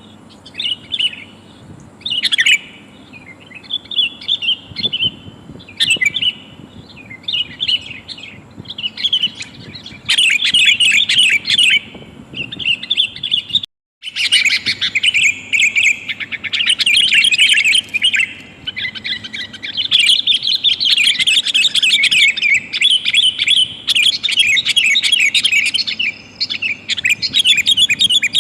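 Sooty-headed bulbul (kutilang) calling in quick chattering phrases, scattered at first and then almost continuous and louder from about a third of the way in, broken once by a brief cut to silence near the middle. These are lure calls, which the uploader presents as a female calling a male.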